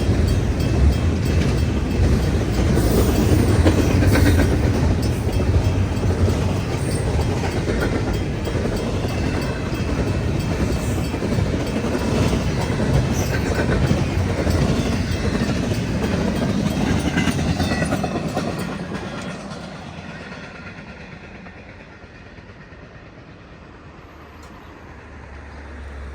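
CN freight train's cars rolling past on the rails, a steady loud rumble and rattle that fades away about 18 to 20 seconds in.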